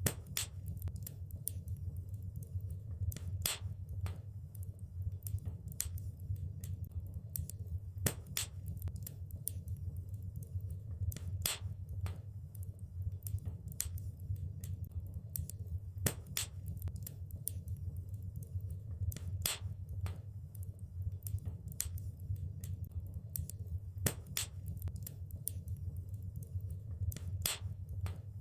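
Wood fire crackling in a fireplace: frequent, irregular sharp pops and snaps over a steady low rumble of burning, with a few louder pops scattered through.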